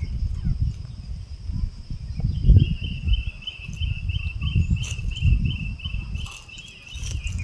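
Insects calling: a steady high-pitched drone throughout, joined about two seconds in by a rhythmic chirping trill of two to three pulses a second. Under them runs a loud, uneven low rumble.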